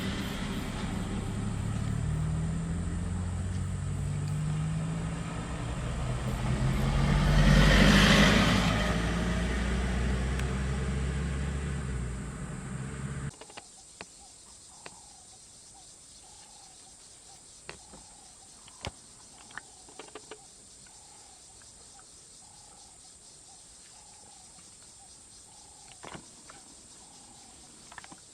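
A vehicle engine running with a swell in loudness about eight seconds in, then cutting off abruptly about halfway through. After that the bush is quiet but for a faint, evenly repeated chirp about once a second and a few sharp clicks.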